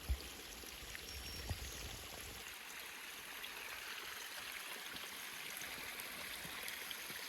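River water rushing steadily over rocks in a gorge. There are two short knocks in the first two seconds, along with a low rumble that drops away about two and a half seconds in.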